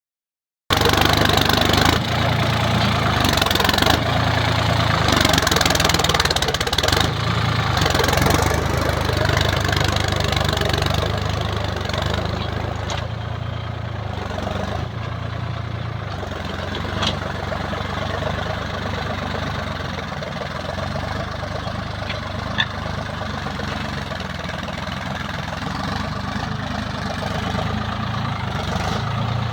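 Sonalika Tiger DI 50 tractor's diesel engine running steadily while pulling a plough through a field. The engine is a little louder for the first ten seconds or so, then settles to a slightly lower, even run.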